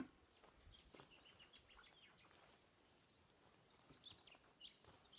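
Near silence, with a few faint bird chirps and one brief click right at the start.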